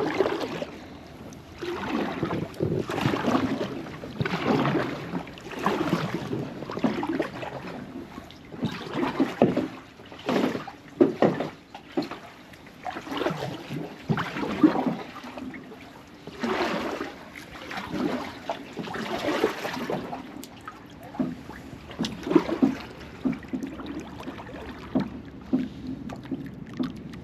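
Kayak paddle strokes pulling through the water, one splashing swish about every second and a half, easing off over the last several seconds.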